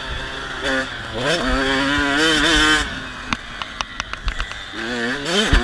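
Dirt bike engine revving: the pitch climbs about a second in and holds, then climbs again near the end, with a run of sharp ticks in between.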